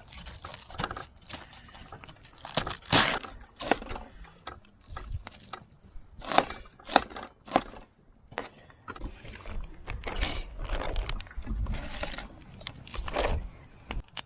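Irregular handling noises: sharp clicks, knocks and scrapes at uneven intervals, with a few louder strikes.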